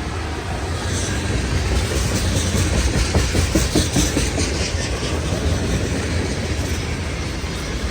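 Freight train cars rolling past with a steady rumble, their wheels clicking and clacking over rail joints, loudest about three to four seconds in.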